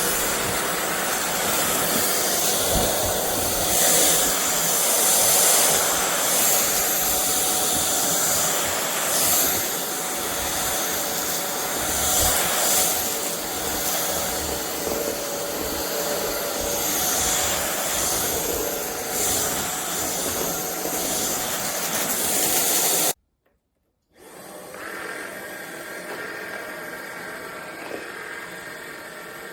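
A frecaer 550 W cordless stick vacuum running with a steady hiss of suction and motor whir, swelling a little now and then as it works. It cuts out abruptly about 23 seconds in; after a second of silence a quieter steady hum with a faint whine follows.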